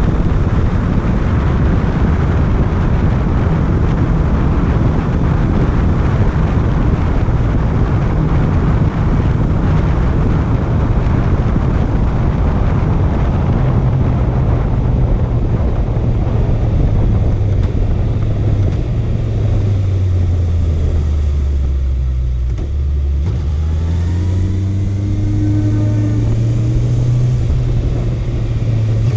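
Honda CB650F's inline-four engine running at speed under heavy wind rush. About two-thirds of the way through, the engine note falls and the wind noise fades as the bike slows, then the pitch climbs again as it accelerates away.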